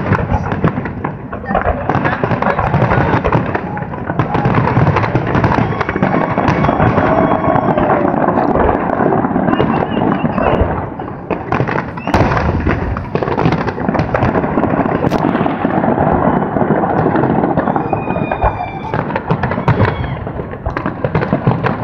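Aerial fireworks display: shells bursting in a dense, continuous barrage of booms and crackling.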